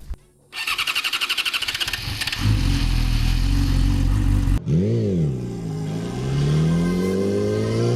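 Yamaha R6 inline-four engine being started: the starter cranks in fast pulses for about two seconds, then the engine catches and idles. After an abrupt cut there is one quick rev that rises and falls, then the engine pitch climbs steadily as it accelerates.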